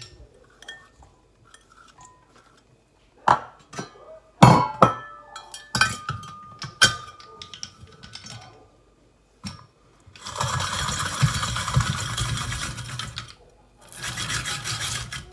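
Metal kitchenware knocking and clinking, some strikes ringing briefly. Then two stretches of steady dense noise, about three seconds and then about a second and a half long.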